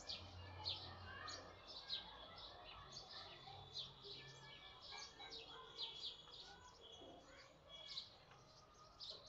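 Small birds chirping: many short, high chirps repeated at an uneven pace, faint.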